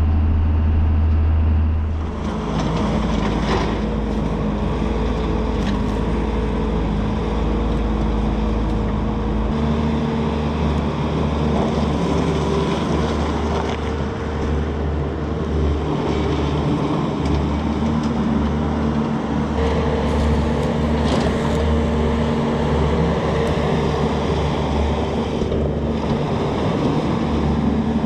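Tractor engine running steadily, its tone shifting about two seconds in and again near ten seconds.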